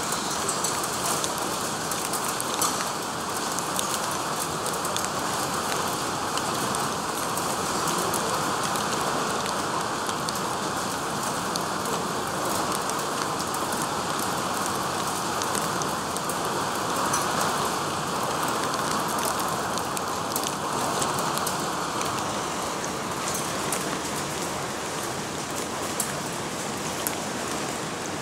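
Heavy thunderstorm rain: a steady downpour with a dense spatter of individual drop hits.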